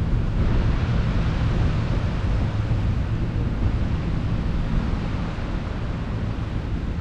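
Wind buffeting the microphone in a steady rumble, with the hiss of sea and waves underneath.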